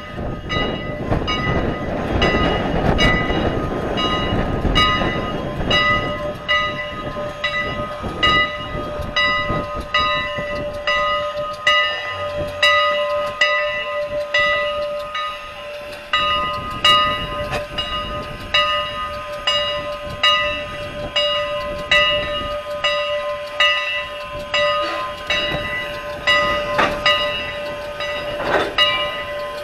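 Steam locomotive's bell ringing in a steady rhythm, struck a little more than once a second. The engine's rumble and hiss lie under it for the first few seconds.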